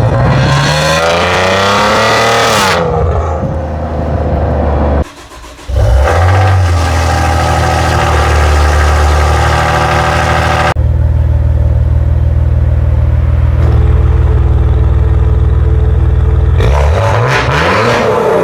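Car exhaust: the engine is blipped and its pitch falls back toward idle, then it idles steadily. There is a short break about five seconds in and another abrupt cut about eleven seconds in. Near the end it is revved again, rising and then falling.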